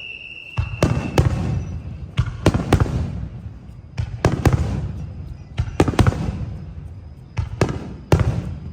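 Aerial fireworks bursting overhead: a rapid series of loud booms and cracks, often two or three in quick succession, each followed by a rumbling echo that dies away.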